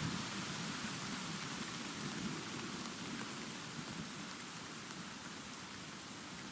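Steady rain falling, with a low rumble of distant thunder that dies away over the first few seconds.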